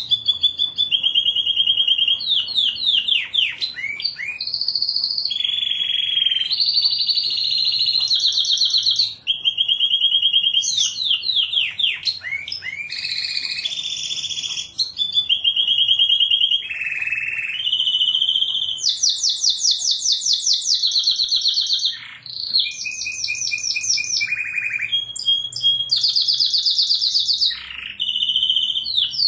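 Domestic canary singing a continuous song of rapid trills, each repeated phrase held for a second or two before switching to another at a different pitch, some made of quick downward-sweeping notes.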